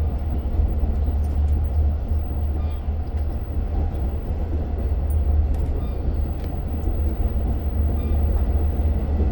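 Steady low rumble inside a moving Long Island Rail Road diesel train's passenger coach, as it runs along the track between stations.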